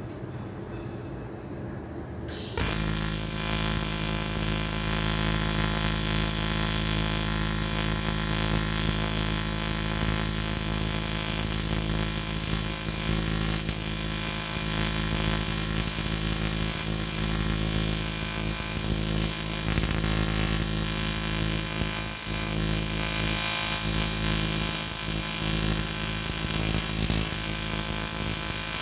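AC TIG welding arc on an aluminium motorcycle cylinder block: a steady electric buzz with a high hiss. It starts suddenly about two and a half seconds in, after a quieter stretch, and holds even.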